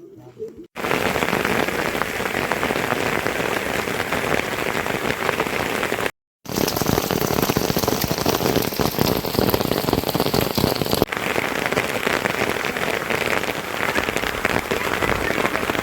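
Heavy rain pouring down as a dense, steady hiss. It cuts in abruptly about a second in and drops out completely for a moment about six seconds in.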